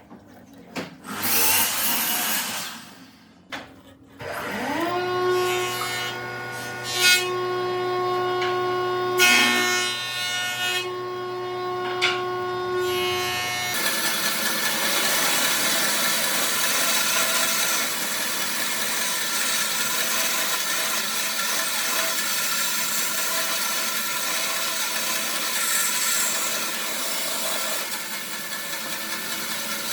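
An electric power tool's motor spins up about five seconds in and runs steadily. From about fourteen seconds the tool bites into wood, giving a steady rough cutting or grinding noise.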